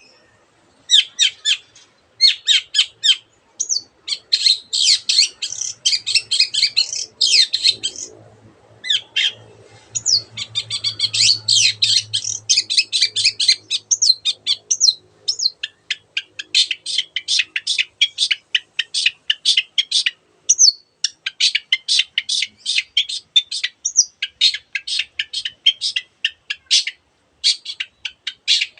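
Long-tailed shrike (cendet) singing: rapid strings of sharp, high chattering notes, with two denser warbling stretches in the first half, a song with many borrowed calls of other birds.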